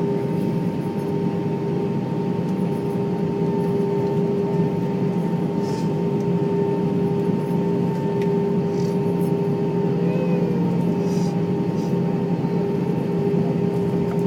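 Steady hum of an airliner's jet engines and airflow heard inside the passenger cabin, with constant steady tones over a broad rush.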